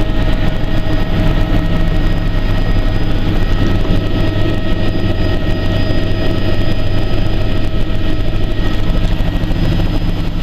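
Tour helicopter in flight: steady turbine and rotor noise with a deep, even throb and a few thin, steady whining tones above it.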